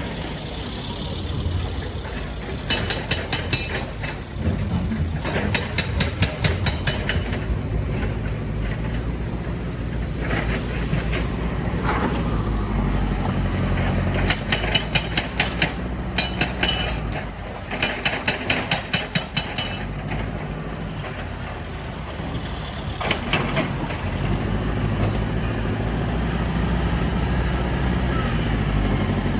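Heavy diesel machinery running steadily, with six short bursts of rapid hammering or clattering impacts at about seven blows a second.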